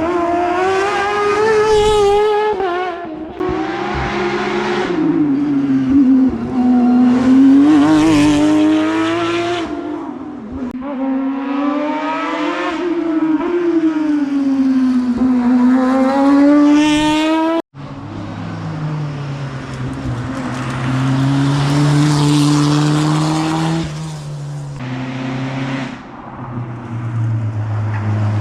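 Rally cars at full attack on an asphalt hillclimb, engines revving hard and dropping back again and again as they shift up and brake through the corners. About two-thirds through the sound cuts off abruptly and a different car takes over, running at a lower, steadier pitch.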